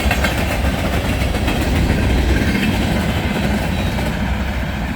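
Freight train passing close by: a steady low rumble with the wheels clicking over the rail joints. The clatter thins out about four seconds in as the train goes by.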